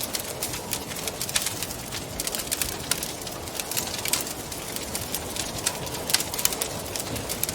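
Wood fire crackling with irregular sharp pops, over a steady rush of wind.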